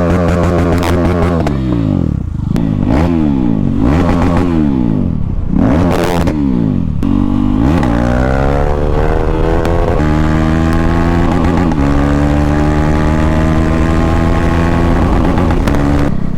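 KTM Duke 390 single-cylinder engine running with no exhaust silencer: it is revved up and down several times, with a few sharp pops among the revs. It then accelerates hard, its pitch climbing and dropping back in steps at the gear changes.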